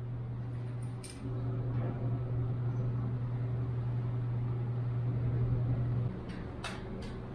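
A steady low hum with a few sharp clicks or knocks, one about a second in and two close together near the end; the hum drops away briefly about a second in and again near the end.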